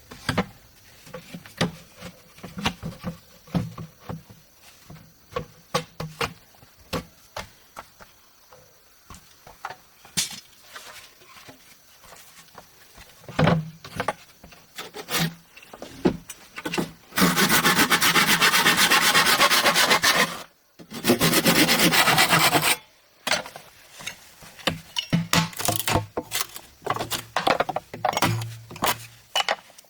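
Scattered knocks and taps of bamboo being handled and worked, then two spells of fast hand-sawing through bamboo, about three and a half and two seconds long, with a short break between, followed by more knocking.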